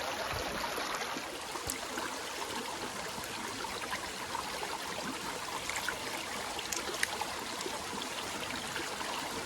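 A river running high, a steady rush of water over stones with a few small clicks and splashes.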